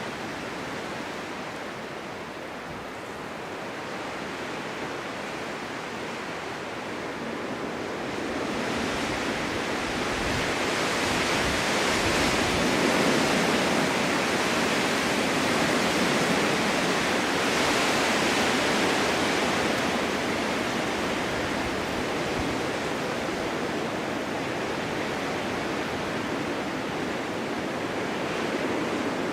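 Winter wind blowing steadily, as in a snowstorm, with a gust that builds about a third of the way in, holds for some ten seconds with a brighter hiss, then eases back.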